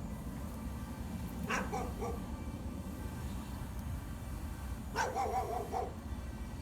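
A dog barking in two short spells, about a second and a half in and again about five seconds in, the second longer, over a steady low rumble.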